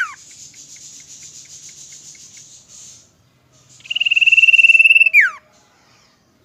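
Common iora (cipoh) singing. The song is a soft rasping chatter, then a long, rapidly trilled whistle held on one pitch that ends in a quick downward slur.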